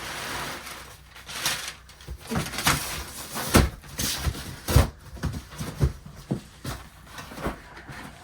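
Items being handled while rummaging through boxes: a brief rustle at the start, then a string of knocks and clatters as things are moved and set down, the two loudest about three and a half and five seconds in.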